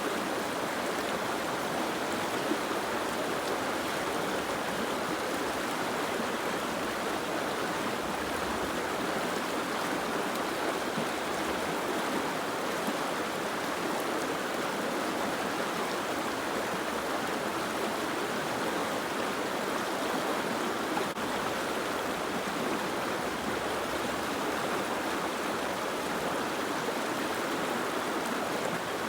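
Soft rain falling, a steady even hiss of water.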